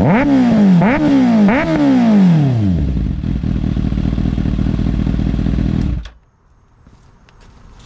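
2024 Kawasaki Ninja ZX-6R's 636cc inline-four, warm, through an M4 GP19 slip-on exhaust: three quick throttle blips in the first two seconds, each rising sharply and falling back. It then settles to a steady idle, and the sound stops about six seconds in.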